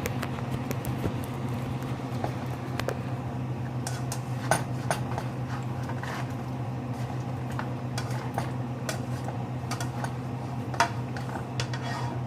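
Kitchen cookware sounds: scattered light clicks and taps of pan and utensils, some sharper than others, over a steady low fan-like hum.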